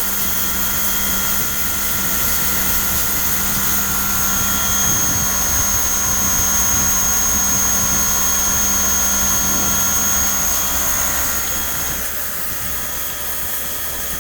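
Makita 240 V electric pressure washer running: a steady motor-and-pump whine over the hiss of the high-pressure water jet, a little quieter about twelve seconds in.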